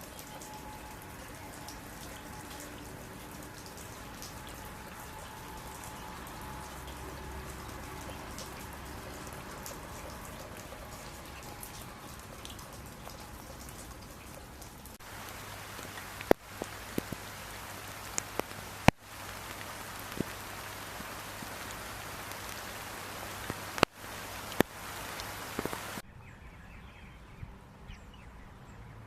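Wet ambience after rain: water dripping and pattering steadily, with a few sharp single drops or taps standing out in the second half. The sound drops suddenly to a quieter background near the end.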